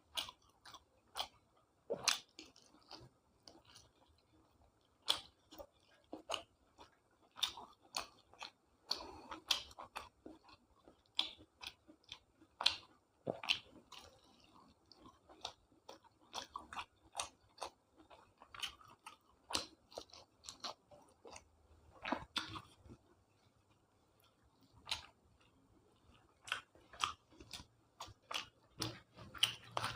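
Close-up eating sounds: a person chewing food with irregular wet smacks and clicks, one to three a second.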